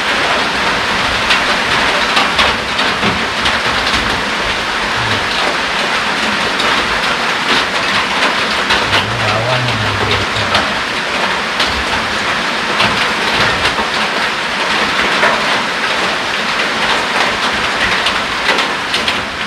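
Rain falling steadily and loudly, an even hiss dotted with many small ticks of drops.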